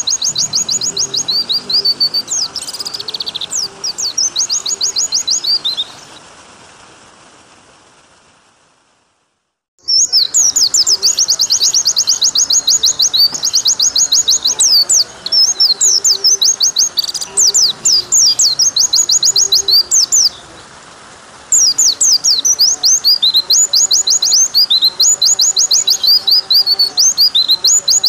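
White-eye (pleci) song: long runs of rapid, high twittering trills, over a steady rush of running water. About a third of the way in, the song fades out to a moment of silence, then starts again abruptly.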